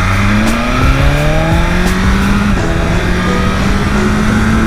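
BMW S1000RR's inline-four engine, stock exhaust, accelerating through the gears: the pitch climbs, dips at a quick-shifter upshift a little past two seconds in, then climbs again.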